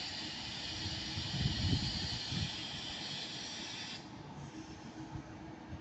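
Steady hiss of compressed air from a train at the platform as it prepares to depart, cutting off suddenly about four seconds in, over a low rumble of the station.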